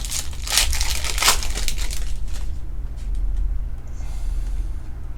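Foil trading-card pack wrapper being torn open and crinkled, in a few quick crackly bursts over the first two seconds or so, then lighter rustling.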